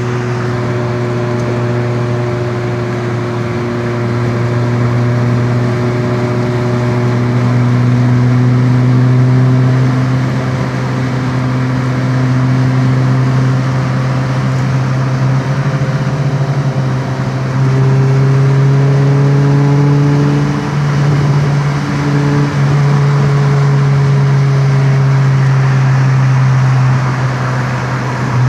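Car engine running with a steady low drone whose pitch drifts slowly up and down.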